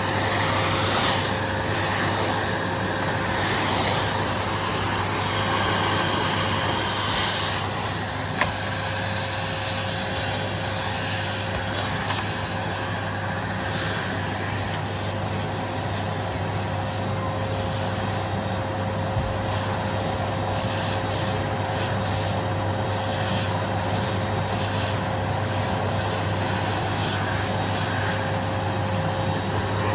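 Upright vacuum cleaner running steadily over carpet, its motor hum holding one pitch while the airflow noise shifts as the nozzle is pushed back and forth; a single sharp tap about eight seconds in.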